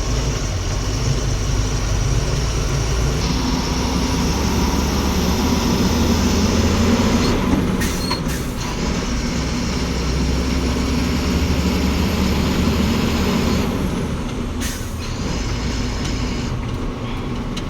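Goods truck driving on the highway: steady engine drone with road and wind noise.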